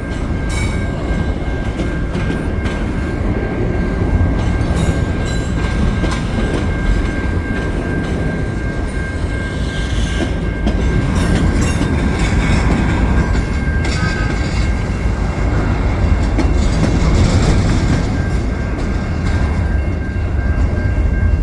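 CN freight train cars rolling past: a steady low rumble with wheels clacking over the rails. A thin, steady high whine runs through most of it and breaks off briefly about two-thirds of the way in.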